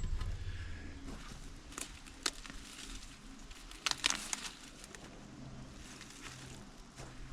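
Outdoor garden-work handling noise: a few scattered clicks and knocks, with a small cluster about four seconds in, over a faint steady low hum.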